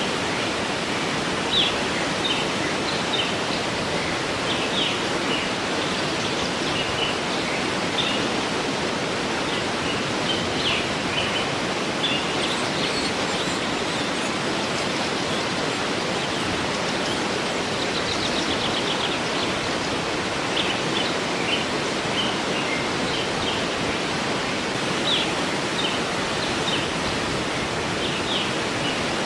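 Waterfall rushing steadily while songbirds chirp over it in short scattered calls, with a quick trill of repeated notes about eighteen seconds in.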